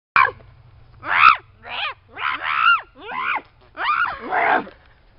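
A voice making a series of about seven short, high squeals, each rising and then falling in pitch, over a steady low hum.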